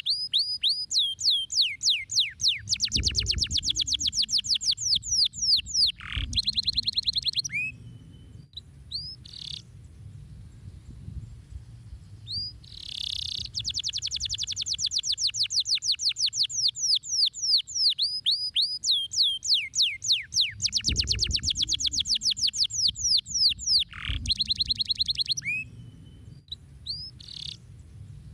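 Domestic canary singing: runs of quick downward-sweeping whistles break into rapid, dense trills and short rolls. The same sequence of phrases repeats about halfway through.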